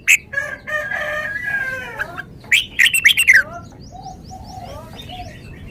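Red-whiskered bulbul singing: loud, sharp whistled notes and a warbling phrase, then a quick burst of loud falling notes about halfway through, with fainter chirping after that.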